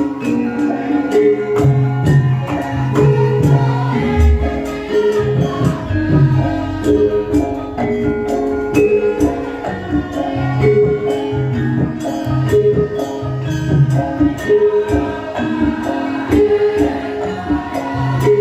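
Live Javanese band music: an instrumental passage of melodic notes over drums and light percussion, keeping a steady beat.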